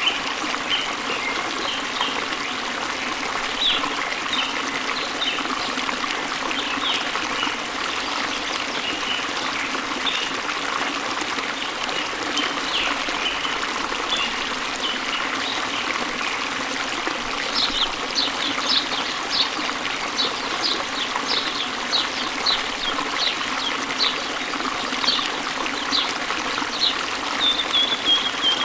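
Birds singing and chirping over a steady trickling stream. From a little past halfway, one bird repeats a short, high, falling note about twice a second, ending in a short falling trill.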